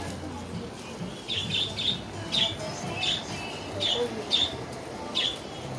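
A small bird chirping, a run of about eight short high chirps that starts about a second in, over a low steady background hum.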